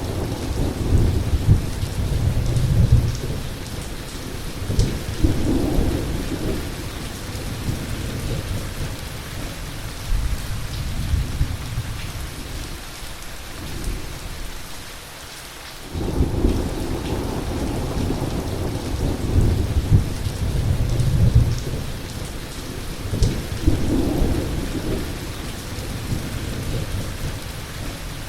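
Heavy rain falling steadily under rolling thunder, with deep rumbles swelling and fading one after another. Past the middle the thunder dies down for a few seconds, leaving mostly the rain, then the rumbling comes back suddenly.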